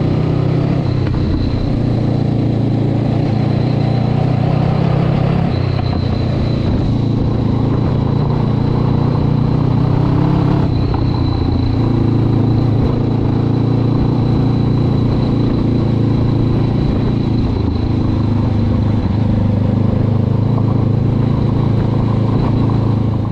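Honda CB500X's parallel-twin engine and exhaust running steadily while riding, the engine note shifting gently with the throttle.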